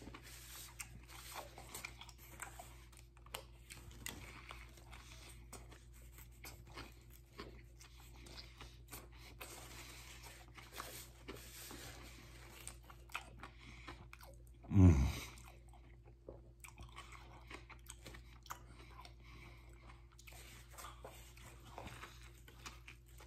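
A man chewing a mouthful of a vegetarian sub sandwich with lettuce, pickles and cucumber: faint crunching and wet mouth clicks throughout. One short, low vocal sound stands out about fifteen seconds in.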